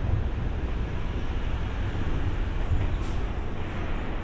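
JR East 205 series electric train approaching slowly, a steady low rumble of its running gear on the track, with a brief high squeak about three seconds in.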